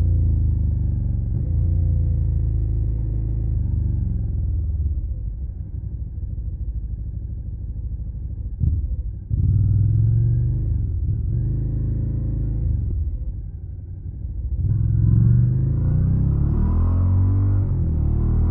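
Suzuki SV650's V-twin engine through a Yoshimura Alpha carbon exhaust, pulling up through the revs in repeated rising sweeps with short breaks between them as it shifts. It eases off briefly a little past the middle, then revs up hard again.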